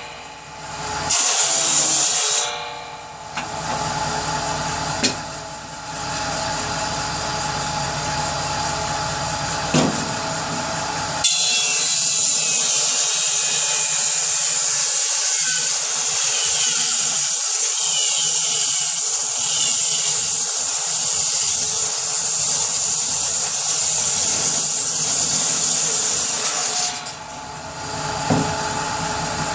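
Power saw cutting wood for kindling, running with a steady hiss of sawing that gets louder about a third of the way in and eases off near the end.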